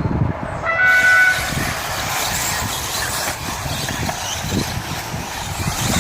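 A short horn-like start tone sounds about a second in. Then a pack of radio-controlled 4WD buggies runs off together on a wet track as a steady hiss of motors and tyre spray.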